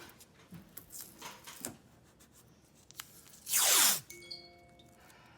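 Tape being handled: a couple of short crackles, then a strip torn off the roll in one loud rip lasting about half a second, around three and a half seconds in.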